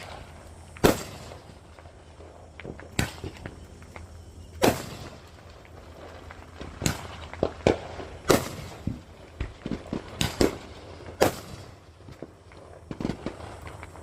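A firework going off in a run of sharp, irregular bangs and pops, about a dozen loud cracks spread unevenly through, with smaller crackles in between.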